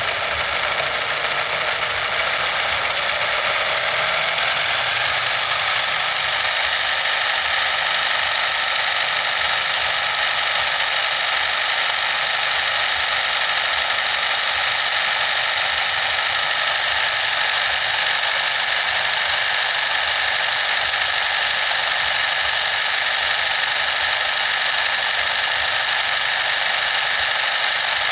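Small motor of a miniature DIY model tractor engine and water pump running with a steady high-pitched whir. Its pitch rises slightly over the first few seconds, then holds even.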